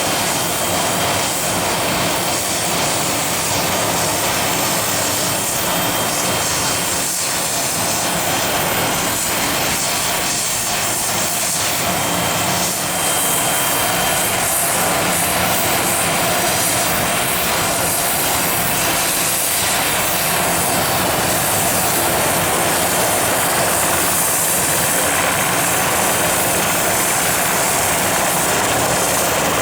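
Aircraft engine noise from an airport apron or runway: a steady, loud rushing sound, with a thin high whine through the first half that fades out, after which the sound grows slightly louder.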